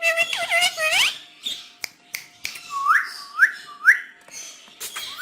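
Ringneck parrots calling: a second of pitched, gliding chatter, then three short rising whistles about half a second apart, with scattered sharp clicks.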